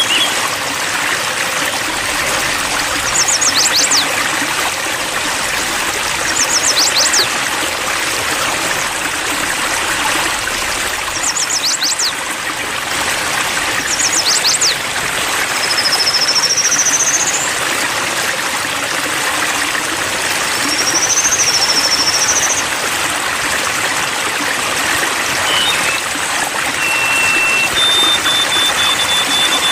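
Steady babbling stream water, with a kapas tembak (golden-bellied gerygone) singing over it: four short bursts of very high, rapid notes, then two rising whistles, then thin high held notes near the end.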